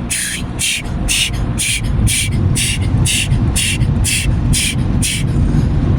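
Automatic car wash dryer blowers running, a steady low rumble around the car, with a rhythmic hiss about twice a second that stops near the end.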